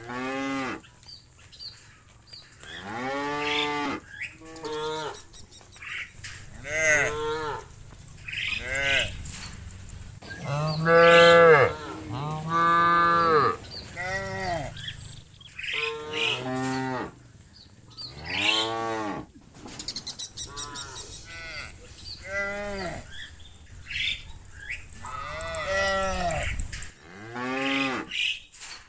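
Cows mooing over and over, call after call at different pitches, each moo rising and then falling in pitch.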